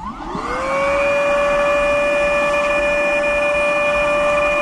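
Electric air pump starting up, its whine rising quickly in pitch and then running at a steady high whine as it inflates an inflatable boat.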